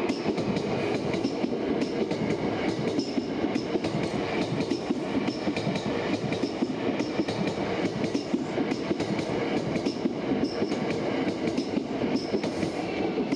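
Train running on rails: a steady rumble with a regular clickety-clack of wheels over rail joints.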